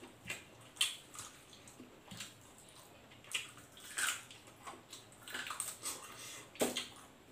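Close-miked wet chewing and lip-smacking of a person eating fried chicken and rice by hand: a scattered run of short, soft smacks with quiet gaps between them.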